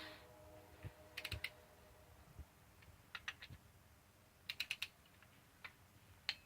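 Hand ratchet clicking in short quick runs of three to five clicks, several times over, while cylinder head bolts are being turned.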